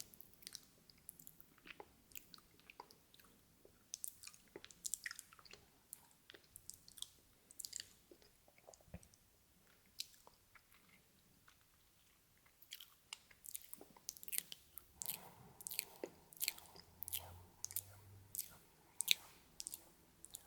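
ASMR mouth sounds: many short wet clicks and smacks of lips and tongue. They are sparse for a few seconds in the middle, then come thick and fast in the last third.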